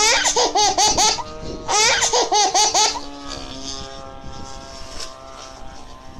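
A person laughing hard in two bouts of rapid, high-pitched ha-ha-ha, the second starting about half a second after the first ends, over a steady background hum.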